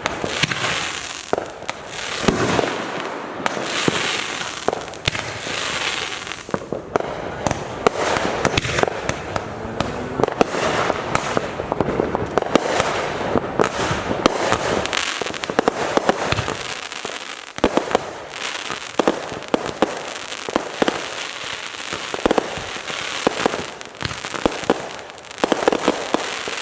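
Fireworks going off: continuous crackling and hissing packed with many sharp bangs, with an occasional deeper boom.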